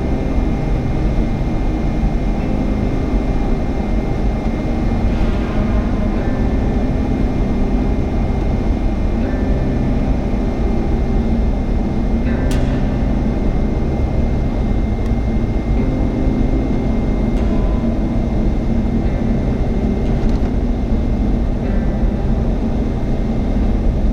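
Steady road and engine noise heard from inside a moving vehicle, a constant low rumble with no sharp events.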